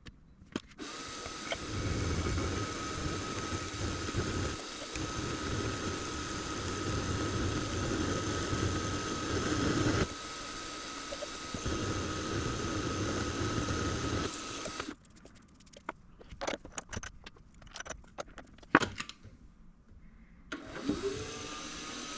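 Benchtop machine-tool motor running with a steady high whine under a rougher, fluctuating cutting noise. It stops about 15 seconds in, followed by several seconds of light metallic clicks and taps. Near the end the motor spins up again to the same steady whine.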